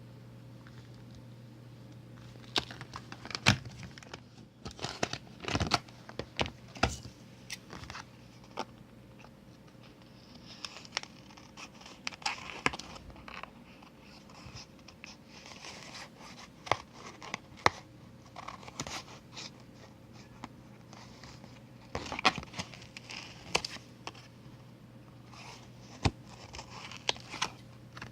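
Paper and a clear plastic phone case being handled: irregular crinkling and scraping with scattered sharp clicks, over a steady low hum.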